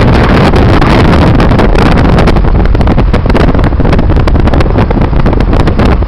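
Loud wind buffeting the microphone over the rumble of a moving car.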